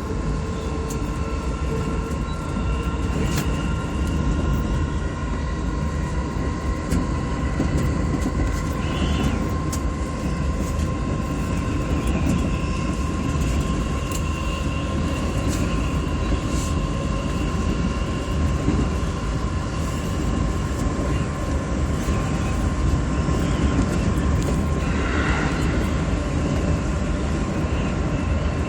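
Electric commuter train running between stations: a steady low rumble with a constant whine, and now and then sharp clicks of the wheels over rail joints.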